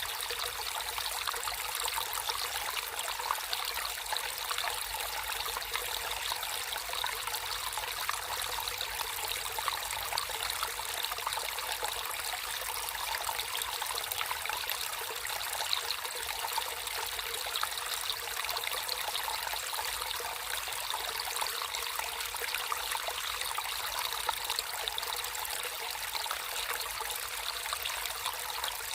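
Water running and trickling steadily in a stream, a continuous splashing hiss with no break.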